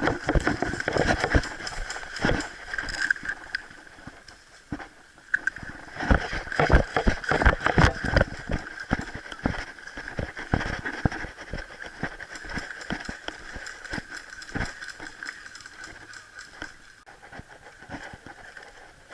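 Footsteps and rustling through dry brush and leaves, an irregular run of crunches that grows sparser toward the end, over a steady high insect buzz.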